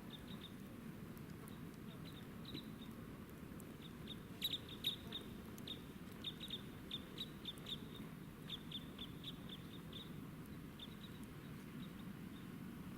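Small birds calling: many short, high chirps, each dropping slightly in pitch, in irregular runs. They are loudest about four to five seconds in and thin out near the end, over a faint steady low rumble.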